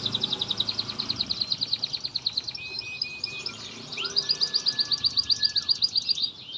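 Canary singing: long rapid trills of high repeated notes, a brief break with a few lower notes, then a louder trill from about four seconds in.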